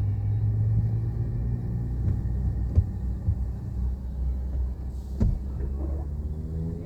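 Automatic car wash machinery running with a steady low rumble, with two sharp knocks, about three and five seconds in.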